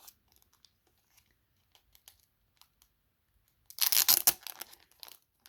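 Plastic card packaging being handled: faint scattered clicks, then a loud burst of crinkling and tearing about four seconds in that trails off within a second.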